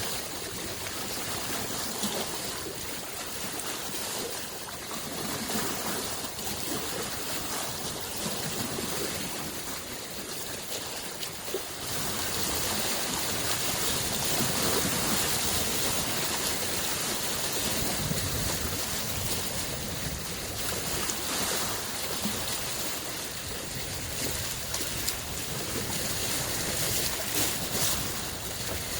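Small lake waves lapping on the shore: a steady wash of water that grows a little louder about twelve seconds in.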